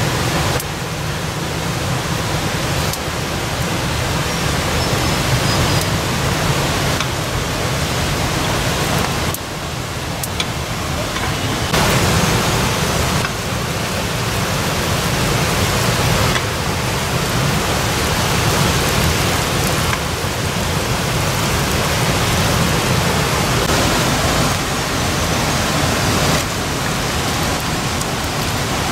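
Chicken curry sizzling in a black iron wok over a wood fire: a steady hiss that steps louder and softer several times.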